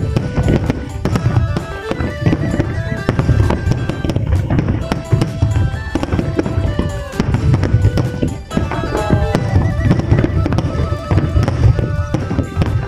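Fireworks bursting in rapid, overlapping bangs and crackles, with music playing at the same time.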